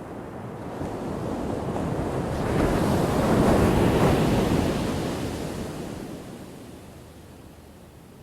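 A single ocean wave breaking in the surf. It builds from about a second in, is loudest around three to four seconds, then washes out and fades away.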